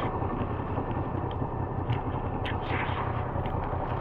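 Riding on a Moto Guzzi V85: wind rushing and buffeting over the microphone, with the motorcycle's transverse V-twin engine droning steadily underneath.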